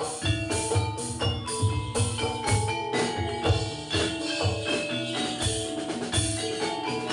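Javanese gamelan playing a jathilan piece: saron metallophones ringing in interlocking notes over a steady low drum beat about twice a second.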